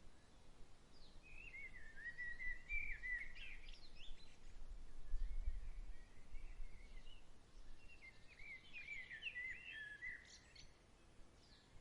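A songbird singing two bursts of quick, warbling chirps, over a steady outdoor hiss. A low rumble swells around the middle.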